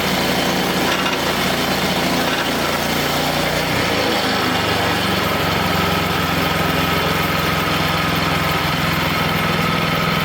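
Small gas engine of a Wood-Mizer LX25 band sawmill running steadily, its low tone changing about four seconds in and then holding steady again.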